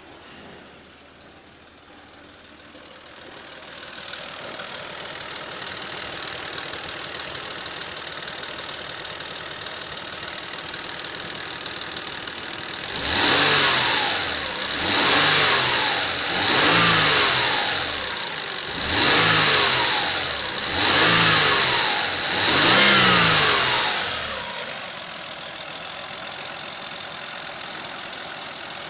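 Toyota 5VZ-FE 3.4-litre V6 idling steadily, then revved six times in quick succession, each blip rising and falling over about a second and a half, before settling back to idle.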